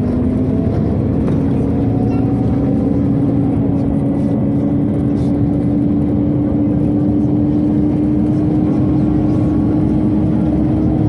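Cabin noise of a Scania OmniCity city bus on the move: engine, driveline and ventilation running, with a steady tone that climbs slowly in pitch over a low rumble.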